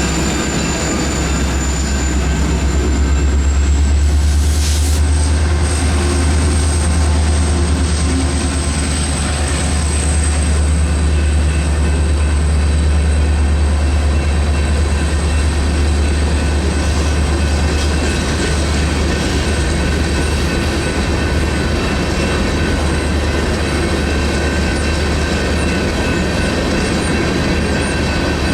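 Freight train rolling through a grade crossing: a steady low rumble of wheels and cars, with thin high-pitched wheel squeal running over it.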